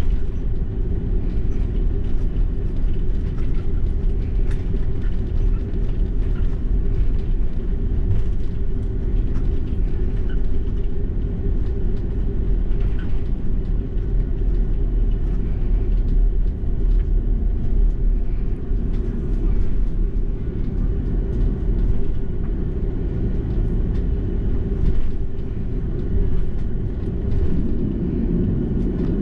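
Cabin noise inside an Airbus A330-300: a steady low rumble, with light rattles and clicks from the cabin fittings throughout.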